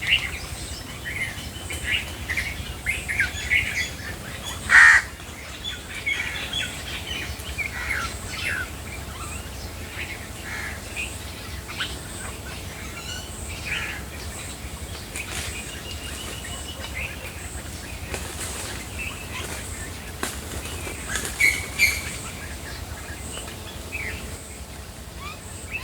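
Several wild birds chirping and calling in short bursts, with one loud harsh call about five seconds in and a couple of louder calls near the end.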